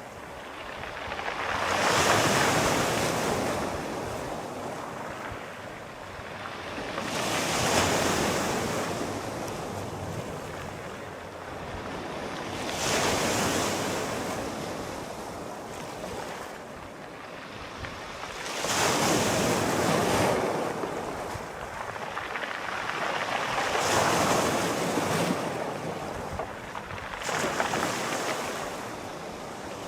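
Sea waves breaking and washing ashore, the surf swelling and fading about every five seconds, six times.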